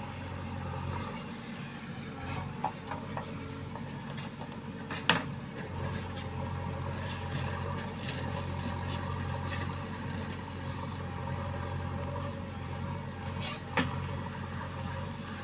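Heavy diesel engine of earth-moving machinery running steadily, with two sharp metallic clanks, one about five seconds in and one near the end.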